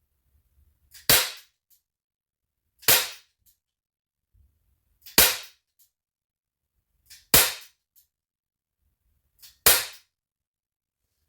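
Crosman 38C .22 CO2 pellet revolver firing five shots, one about every two seconds. Each is a sharp crack with a brief ring, most with a faint click just before.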